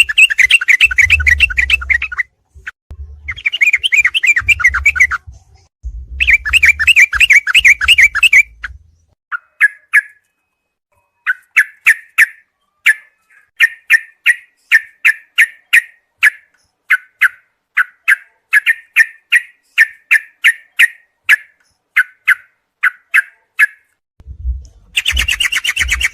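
Yellow-vented bulbul (trucuk) song, as used for training cage birds: rapid, dense chattering phrases with a low rumble under them for the first several seconds, then a long series of short clear notes, about two a second.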